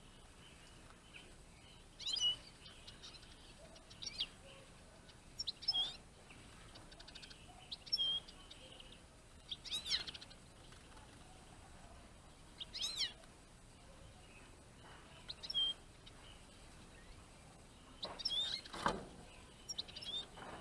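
Eurasian siskins giving short, high calls, some sliding in pitch, roughly every two seconds. A brief thump comes near the end.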